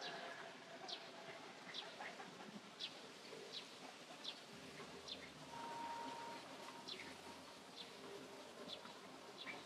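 Faint, high-pitched bird chirps, short and falling in pitch, repeating about every three-quarters of a second.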